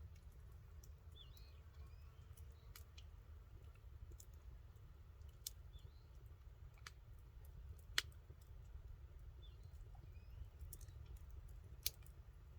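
Campfire crackling: sparse, irregular sharp pops from the burning wood, the loudest about eight seconds in and again near the end, over a faint low rumble.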